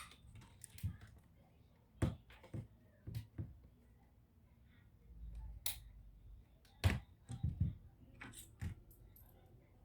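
Irregular light clicks and knocks, about a dozen, from small laptop parts being handled during repair work, with a brief low rumble about five seconds in.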